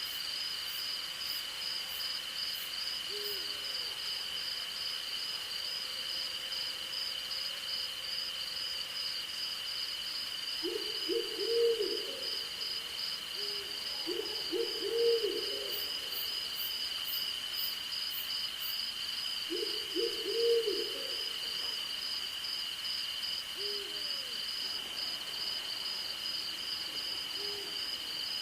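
Owl hooting in three short groups of arched low notes, a third of the way in, near the middle and about two-thirds in, with a few fainter single hoots between. Under it runs a steady night chorus of crickets and other insects: one unbroken high trill and one fast-pulsing one.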